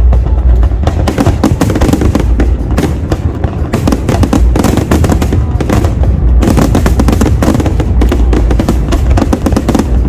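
Fireworks display shells bursting in rapid succession: a dense run of sharp bangs and crackle over a deep low rumble, with a brief slight lull about four seconds in.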